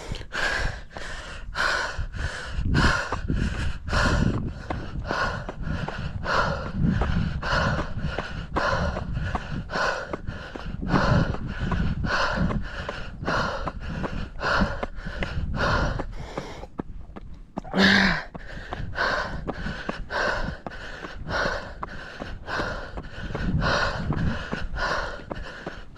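A runner breathing hard and rhythmically on a steep uphill climb, about two breaths a second, with wind rumbling on the microphone. The breathing stops briefly about two-thirds of the way through and comes back with one louder, harsh exhale.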